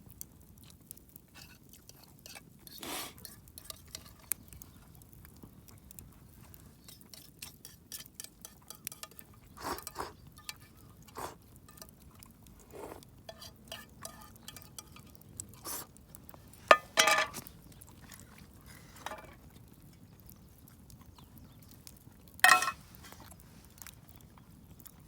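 A spoon scraping and clinking against a metal mess tin while someone eats rice and curry, with a few louder ringing knocks about 17 and 22 seconds in, and soft chewing.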